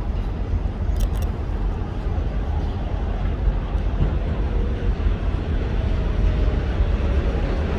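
New York City subway train on the 7 line running into a station: a steady low rumble of wheels on the rails, with a faint whine held through the second half.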